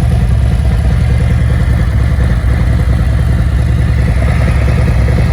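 Harley-Davidson Milwaukee-Eight 114 V-twin with torque cams, running steadily through a full Khrome Werks exhaust system, most likely at idle. Its loud, even low pulsing does not rise or fall.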